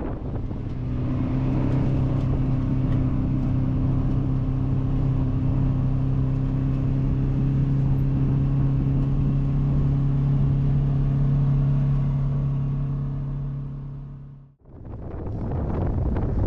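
Vehicle engine running at a steady speed, a constant low hum over a rumble. It cuts off abruptly about two seconds before the end, giving way to wind noise on the microphone.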